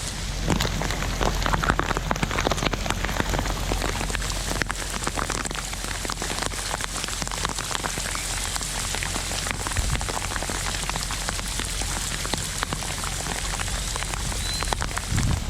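Heavy rain falling steadily, with many individual drops ticking sharply on nearby surfaces.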